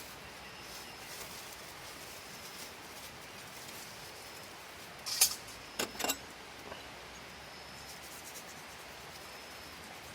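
Insects chirping now and then in short, high, thin trills over a quiet outdoor background, with a brief clatter of sharp small knocks a little past halfway.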